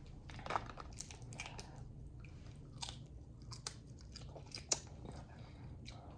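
A person chewing and biting food, with irregular small clicks and crunches.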